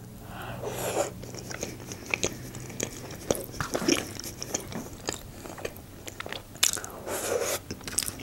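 Close-up chewing of a mouthful of julienne, mushrooms and chicken baked in cream and cheese, with many small wet mouth clicks and smacks, and a fork working in the foil tray.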